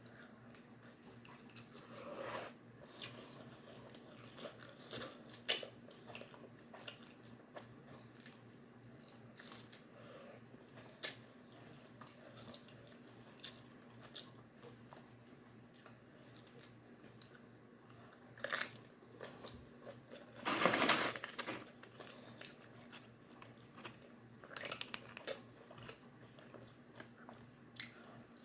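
Close-up eating sounds: scattered crunching bites and chewing, with a louder noisy burst about two-thirds of the way through.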